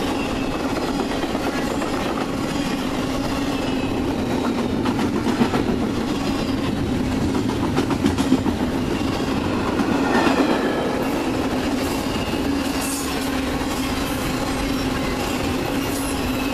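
Norfolk Southern intermodal freight cars rolling past close by: double-stack well cars and trailer-carrying flatcars, their steel wheels clattering steadily over the rail joints. A few louder knocks come around the middle.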